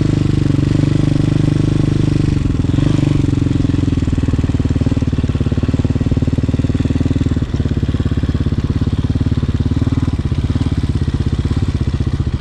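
Hawk 250 dirt bike's single-cylinder four-stroke engine running at low revs, pulling along slowly in first gear, with the note dropping slightly about two seconds in and a brief tick about halfway through.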